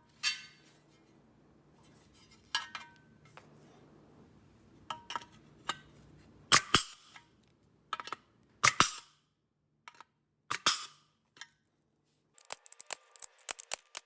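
Loose steel parts being handled and set in place: a scattering of sharp metal clinks and clanks, a few louder than the rest, then a quick run of light clicks near the end.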